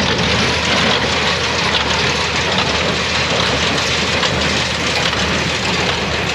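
Heavy farm machinery engine running steadily, loud, with a broad mechanical clatter over its low hum.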